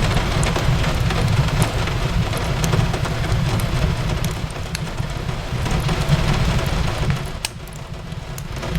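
Steady rain on a window with a low rumble beneath it, and scattered sharp crackles and pops of a wood fire burning in a fireplace.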